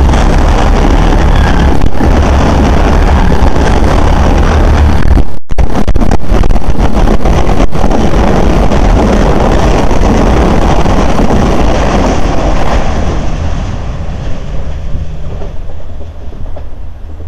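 Two Irish Rail diesel multiple units passing at speed on adjacent tracks: a CAF-built 29000-class commuter railcar set going through with heavy low rumble and wind buffeting until about five seconds in, then a 22000-class InterCity railcar set rushing past. The noise stays loud, then fades away from about thirteen seconds in as the second train draws off into the distance.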